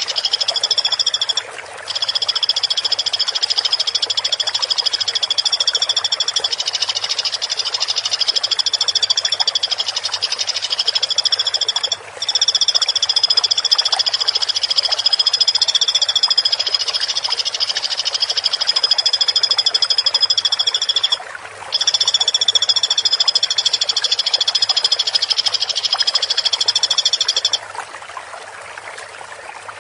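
Recorded woodpecker call playing as a long, continuous high trill on two pitches. It breaks off briefly three times, about 2, 12 and 21 seconds in, and stops shortly before the end.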